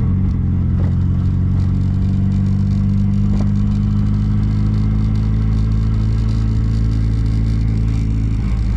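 The 1275cc four-cylinder engine of an MG Midget running at a steady speed, a continuous low drone that eases slightly near the end.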